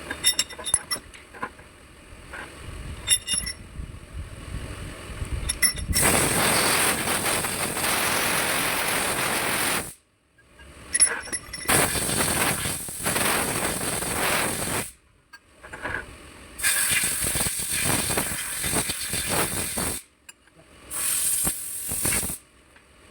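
Engine workshop work: light metallic clinks of parts being handled, then loud rushing hiss in four separate stretches, each several seconds long, cut off abruptly.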